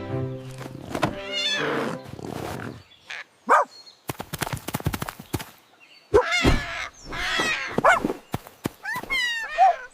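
Music fading out, then a quick run of sharp clicks and several short animal cries that slide up and down in pitch, about four of them, the last near the end.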